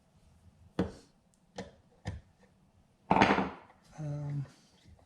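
Tools and small parts being picked up and set down on a workbench: a few sharp knocks, a louder clatter about three seconds in, then a short low hum.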